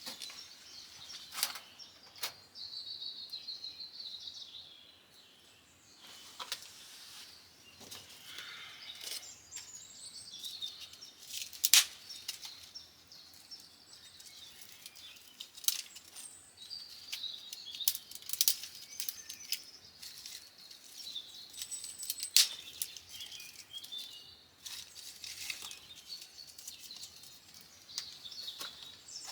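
Songbirds chirping and singing steadily outdoors, with scattered sharp clicks or snaps close by, the loudest about twelve seconds in and again about twenty-two seconds in.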